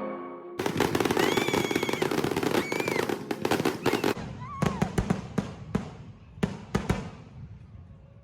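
Fireworks going off: a dense, rapid crackle starting about half a second in, then a string of separate sharp bangs that thin out and fade away.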